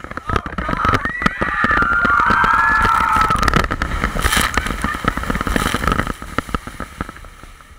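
Wind and motion noise buffeting a GoPro's microphone on a log flume boat ride, rumbling and crackling, with several people's high voices gliding up and down from about one to three and a half seconds in.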